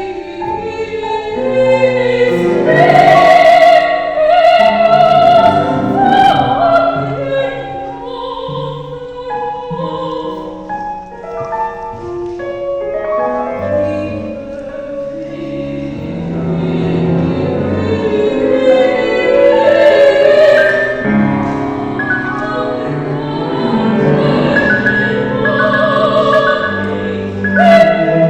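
A classical art song performed live: a trained, opera-style voice sings long wavering notes over instrumental accompaniment.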